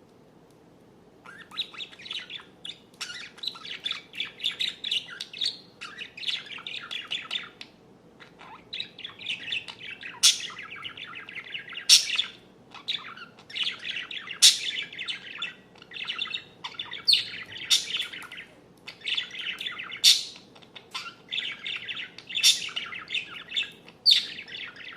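A songbird singing a long, rapid warbling song of trills, broken by short pauses and sharp high-pitched notes. The song starts about a second in.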